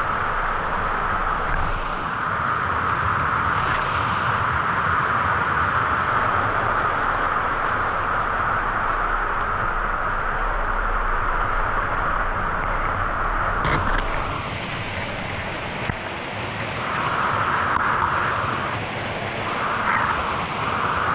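Waterfall pouring into its plunge pool: a steady rush of falling water. Twice, about two-thirds of the way in and again near the end, it turns brighter and hissier for a couple of seconds.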